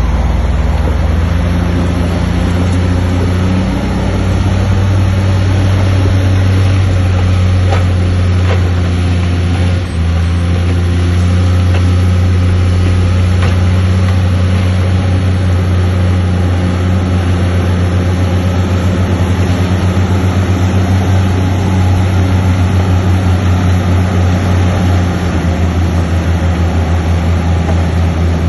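Bulldozer's heavy diesel engine running loud and steady under load, with a brief dip a little before ten seconds in and a fast pulsing throb in the second half.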